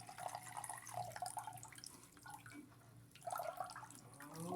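Faint water trickling and dripping inside a Consul washing machine's tub.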